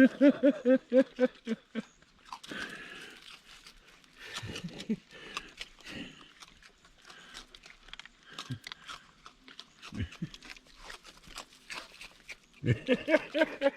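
A woman laughing in short, rhythmic pulses that fade away, and laughing again near the end. In between there are scattered soft clicks and rustles.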